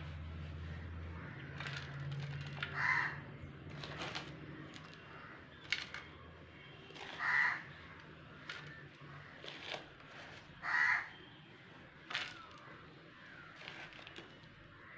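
A bird cawing three times, a few seconds apart, with scattered light clicks and knocks and a low hum in the first few seconds.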